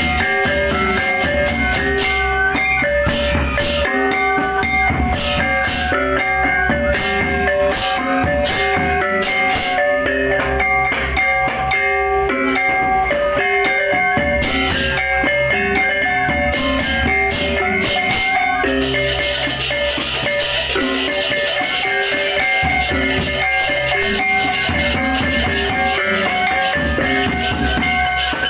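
Balinese baleganjur gamelan playing, with bronze gongs and kettle gongs ringing held pitches over drums and rapid clashing ceng-ceng cymbals. From about two-thirds of the way through, a denser high hiss thickens the sound.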